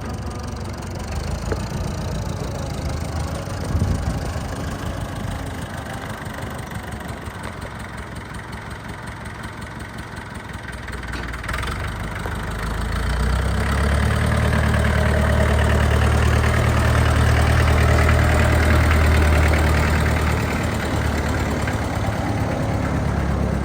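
International Harvester 444 tractor engine running. It idles at first, then its speed picks up about halfway through and holds for several seconds before easing back down near the end.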